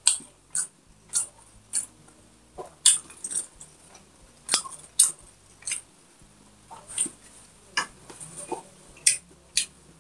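Close-miked chewing of a mouthful of food, with sharp irregular crunches and wet mouth clicks about one or two a second.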